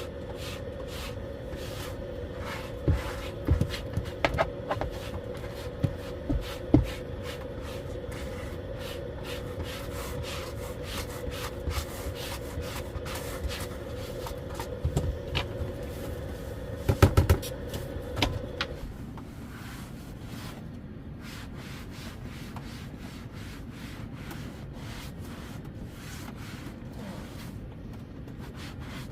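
A small motor hums steadily and cuts off suddenly about two-thirds of the way through, with scattered knocks and rubbing of things being handled; the loudest is a quick cluster of knocks just before the hum stops.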